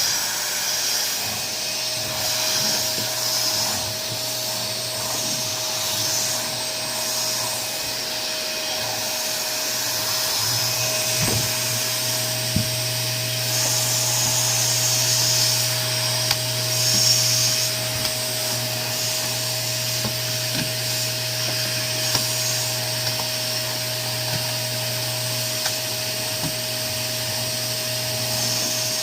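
Canister vacuum cleaner running steadily: a constant motor hum and whine under a loud rush of air that swells and eases slightly, with a few light knocks about halfway through.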